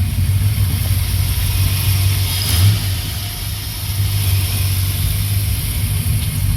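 A car engine running with a steady low rumble, swelling briefly about two and a half seconds in.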